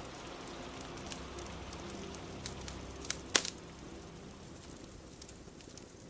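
Crackling fire over steady rain: a constant hiss of rain with scattered crackles, and one sharp pop about three and a half seconds in.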